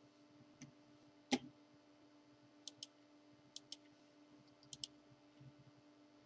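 Computer mouse clicking, quietly: one sharper click about a second in, then three quick double clicks, over a faint steady hum.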